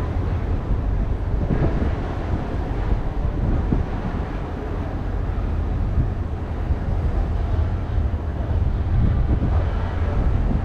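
Steady low rumble of a river ferry under way, with wind blowing across the microphone on the open upper deck.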